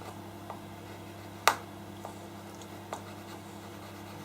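Pastel pencil working on paper: a few faint ticks and one sharp click about one and a half seconds in, over a steady low hum.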